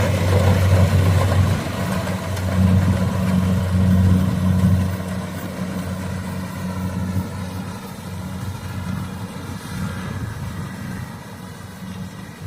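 Engine of a rice combine harvester running with a steady low hum, loudest for the first five seconds or so and then growing quieter.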